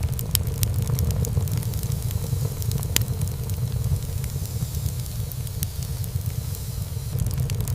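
Wood fire burning in a fireplace: a steady low rumble of flames with frequent sharp crackles and pops of burning wood, one louder pop about three seconds in.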